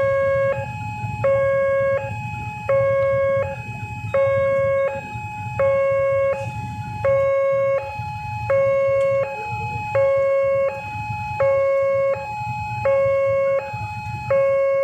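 Railway level-crossing warning alarm sounding a loud electronic two-tone pattern: a short higher tone, then a longer lower one, repeating about every one and a half seconds, over a low rumble.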